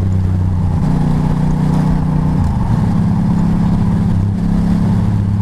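Motorcycle engine running at road speed under wind noise; the engine note steps up about a second in and drops back about halfway through as the throttle changes.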